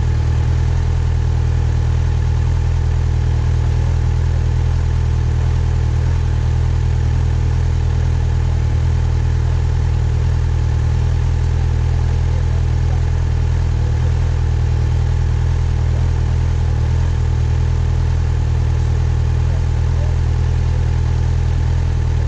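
Yamaha FZ6R's 600 cc inline-four engine idling steadily, its low tone holding unchanged with no revving.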